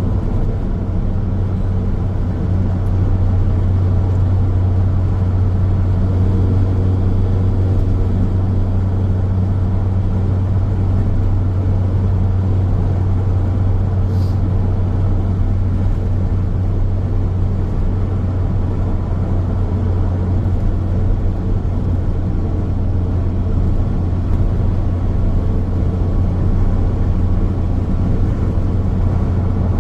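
Steady road noise from a moving car: a continuous low rumble of tyres on the road and engine, with a faint brief tick about halfway through.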